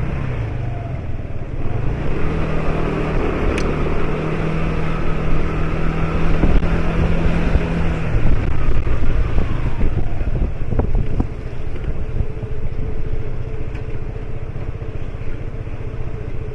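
Motorbike engine running while riding, with wind on the microphone and road noise; the steady engine note drops away about eight seconds in, and the sound eases off from about twelve seconds as the bike slows.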